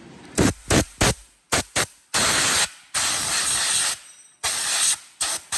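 Pressurised spray hissing in bursts: several quick short puffs, then three longer sprays lasting about half a second to a second each, then a few more quick puffs near the end.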